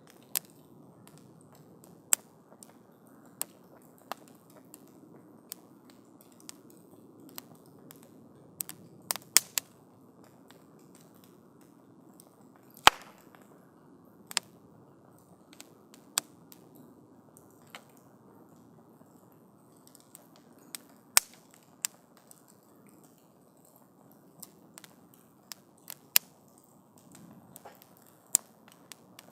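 Wood campfire burning with a soft hiss and irregular sharp crackles and pops, about one or two a second, the loudest about 13 and 21 seconds in.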